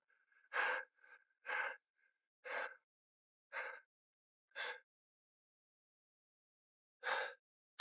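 A man's laboured breathing: six short, gasping breaths about a second apart, a pause of about two seconds, then one more near the end. He is hurt from a fall, with what he thinks is a broken rib, and breathes with difficulty.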